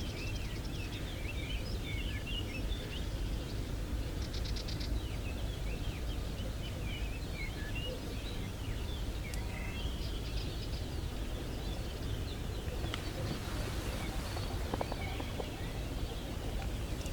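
Small birds chirping and singing in many short, quick notes, with a brief fast rattling call about four seconds in, over a steady low background noise.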